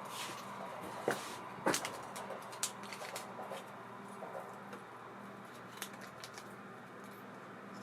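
Small clicks and knocks from handling a baitcasting reel at the workbench. The two sharpest knocks come about a second in and just before two seconds, then lighter scattered ticks follow over a faint steady hum.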